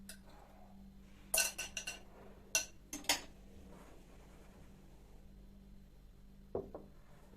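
Kitchenware clinking as it is handled: a quick run of four sharp clinks, a single clink, then two more, and two duller knocks near the end.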